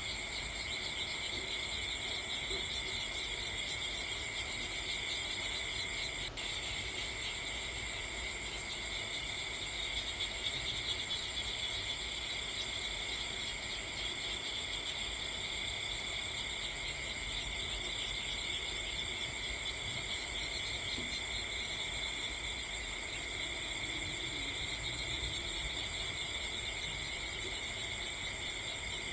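Steady, unbroken chorus of crickets chirring, high-pitched and continuous, over a low background hiss.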